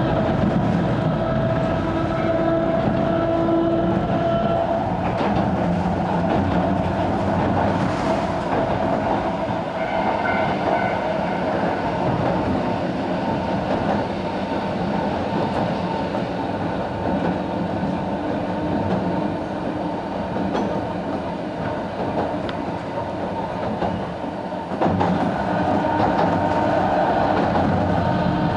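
Narrow-gauge 270-series electric train running along the line, heard from on board: steady wheel-on-rail rumble with clickety-clack and a whine from the traction motors, getting louder about 25 seconds in.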